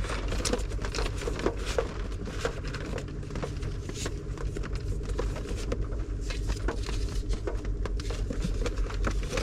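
Stationery being handled by hand: irregular rustling of paper and light clicks and taps, over a low steady hum.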